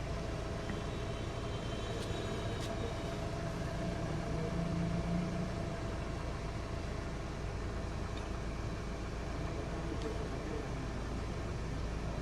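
Toyota XLi's petrol engine idling steadily, a constant low hum with a steady tone above it, swelling slightly for a second or so near the middle.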